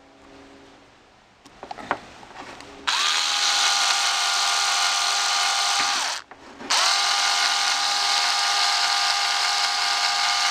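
Power drill driving a screw into an RC truck's steering block. The motor whirs up about three seconds in, winds down and stops briefly around six seconds, then starts again and runs steadily.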